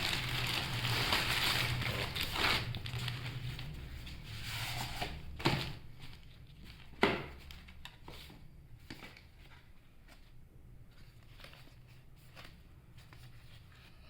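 Packaging being crinkled and torn open on a phone's retail box, then a few sharp clicks and fainter handling noise.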